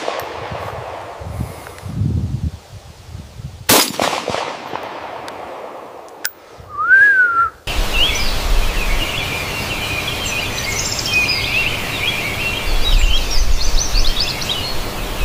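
A dense chorus of songbirds chirping and singing over the second half. Earlier, about four seconds in, comes a single sharp gunshot with a fading tail, and a lone whistled note rises and falls a few seconds later.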